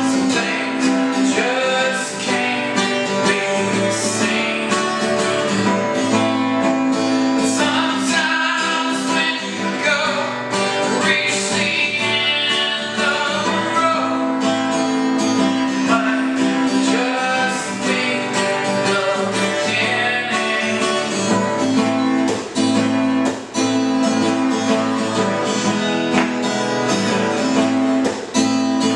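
Acoustic guitar strummed steadily, ringing chords in a regular rhythm.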